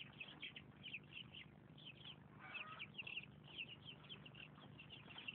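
Faint, rapid chirping of small birds, with a somewhat fuller call about two and a half seconds in.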